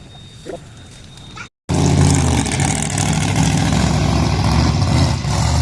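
A vehicle engine runs steadily and loudly close by, starting abruptly about a second and a half in after a brief cut. Before that there is only faint outdoor background noise.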